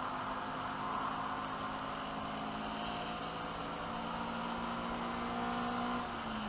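Race car engine running at steady high revs, heard inside the stripped cabin with road and wind noise; near the end the engine note drops as the revs fall.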